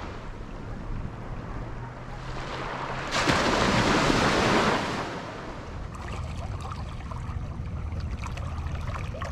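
Wind rushing over the microphone and water noise from a small boat under way, with a faint low motor hum underneath. A louder rush comes about three seconds in and lasts about a second and a half, and small splashes and ticks follow.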